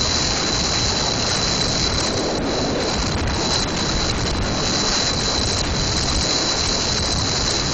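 Steady, loud road noise of a car driving on a snow-covered freeway, with tyre and wind noise, recorded through a cellphone microphone.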